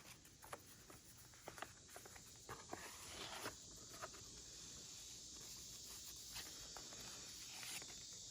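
Faint handling of a handmade paper-and-fabric journal: scattered light clicks and a brief rustle of pages over a steady hiss.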